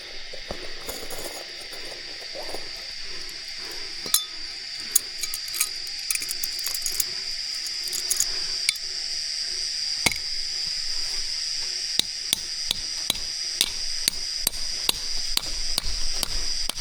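Steady high-pitched drone of forest insects, with scattered sharp knocks or clicks that come more often in the second half.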